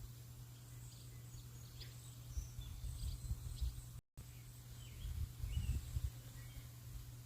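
Birds chirping, with scattered short high chirps and brief whistles, over a steady low rumble. The sound drops out completely for a moment about four seconds in.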